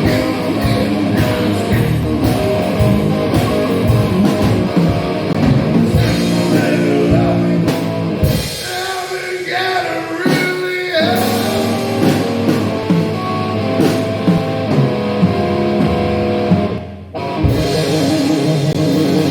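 Blues-rock-punk music played by a duo: electric guitar over a drum kit, with a short break near the end before the band comes back in.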